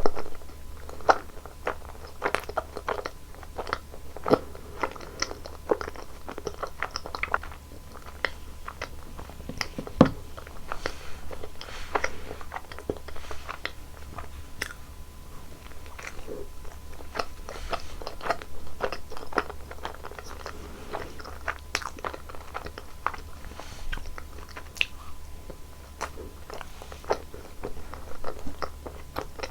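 Close-miked eating of Baskin-Robbins ice cream desserts: repeated biting and chewing, with many crisp crunching clicks at an irregular pace.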